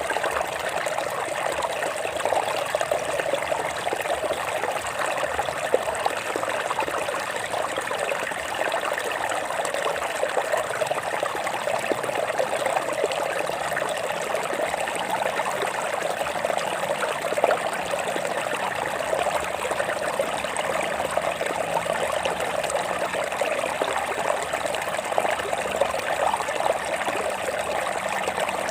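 A small stream running and trickling over rocks, a steady babble with many fine splashes.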